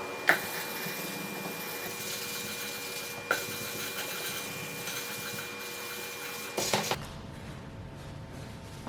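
A steady workshop hum with a few thin steady tones, broken by three sharp knocks about three seconds apart; the hum thins out near the end.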